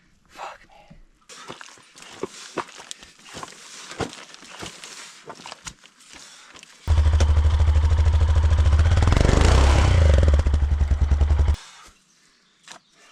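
Enduro dirt bike engine running loud for about five seconds, starting abruptly about seven seconds in and cutting off sharply, after several seconds of scattered clicks and scraping.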